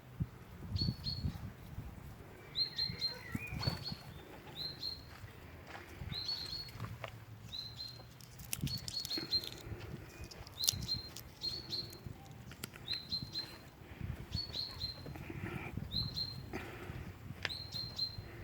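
Small bird chirping: short high chirps in quick clusters of two or three, about once a second, over low rustling and a few light clicks.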